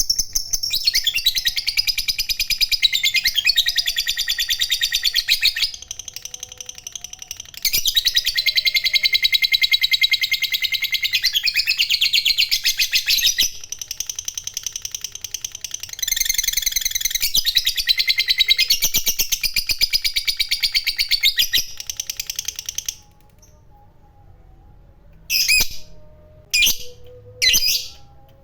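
A lovebird 'ngekek panjang': its long, rapid-fire chattering trill of fast repeated high notes. It comes in three long runs, with short breaks about a third and halfway through, and ends in a few separate short chirps near the end.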